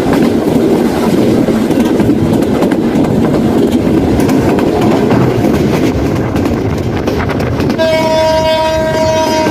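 Running noise of a Bangladesh Railway commuter train at speed, heard from on board, wheels running over the rails. About eight seconds in, the locomotive's horn sounds one steady note for nearly two seconds.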